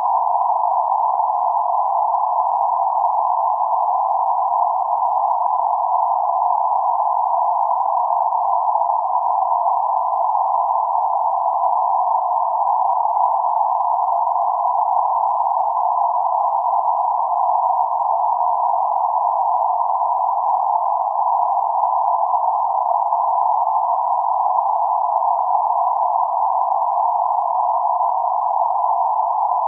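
Steady band-limited noise centered around 848 Hz, a constant mid-pitched hiss with no high or low end, used as sleep and relaxation noise.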